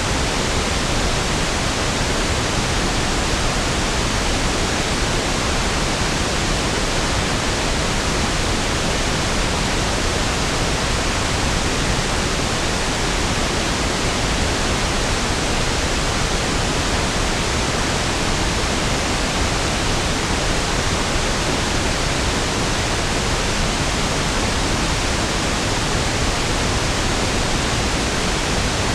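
Pink noise (1/f noise): a steady, even hiss that spreads its energy evenly across the octaves, so it sounds smoother and deeper than white noise, with no change.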